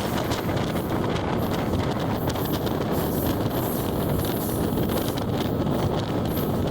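Steady wind rushing over the microphone, mixed with the running noise of a DEMU (diesel-electric multiple unit) passenger train under way.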